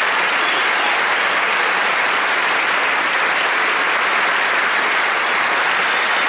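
Concert audience applauding steadily after a band performance.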